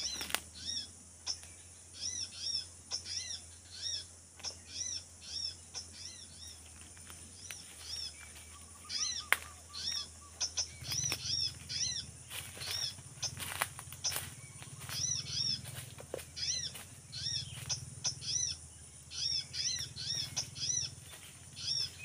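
Small birds calling: short, arched chirps, repeated over and over in quick groups of two or three, over a steady high hiss.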